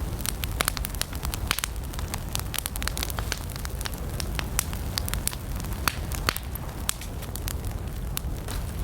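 Wood campfire crackling, with frequent sharp irregular snaps and pops over a steady low rumble.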